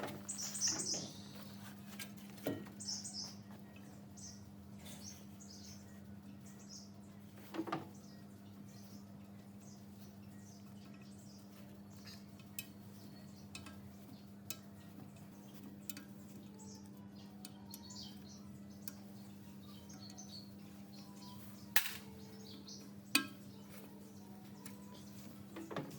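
Light metal clinks and knocks from hand work on machine parts, with a few sharp taps, two of them louder near the end, over a steady low hum and faint short squeaks.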